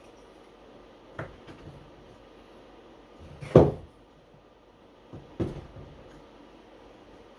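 Wooden beehive frame parts knocking together as a frame is put together by hand. There are three distinct knocks, the loudest about halfway through, with a few lighter taps in between.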